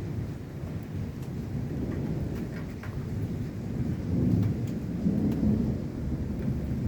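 Rolling thunder rumbling low and continuously, swelling louder about four seconds in and again shortly after, with rain falling.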